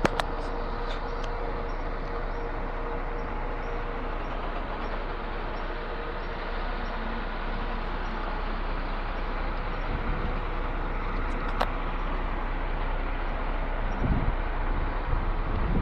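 Concrete pump truck running: a steady mechanical drone with a faint even ticking, and a couple of low knocks near the end.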